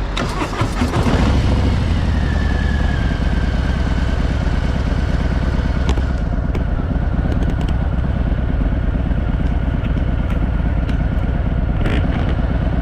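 Harley-Davidson Fat Boy's V-twin engine revving up about a second in as the motorcycle moves off, then running steadily with a deep low rumble.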